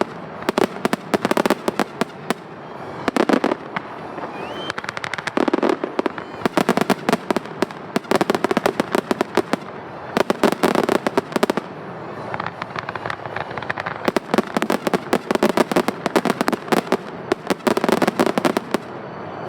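Fireworks going off in a rapid, dense barrage of sharp bangs and crackle, coming in several waves with short thinner gaps between them.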